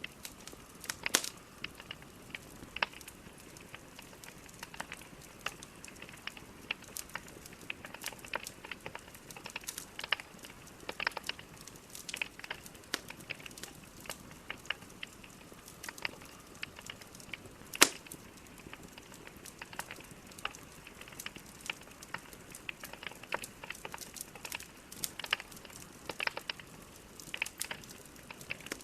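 Wood logs burning in a fireplace: a soft steady hiss with irregular sharp crackles and pops throughout, one loud pop about two thirds of the way through.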